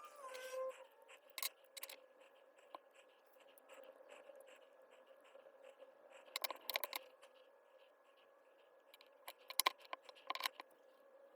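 Small hard parts clicking and clinking as they are handled, in a few short clusters, over a faint steady hum.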